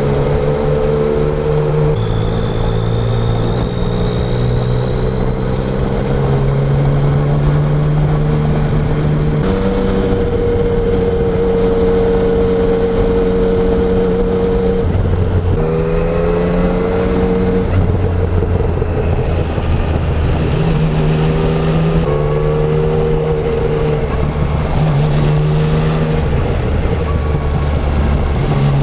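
Yamaha Tracer 900's inline three-cylinder engine, heard through its stock exhaust while riding, with road and wind noise. The engine note rises and falls with the throttle and changes pitch in steps several times as gears are changed without a quickshifter.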